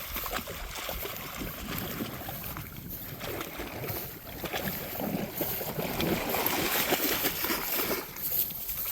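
Water sloshing and lapping, a little louder in the second half.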